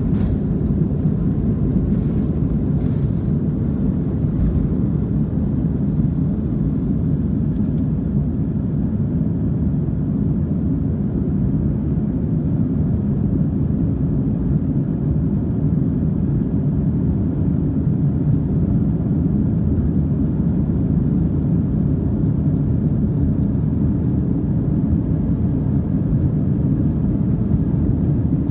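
Steady low rumble inside the passenger cabin of a Boeing 737-700, the even drone of its CFM56-7B jet engines and airflow.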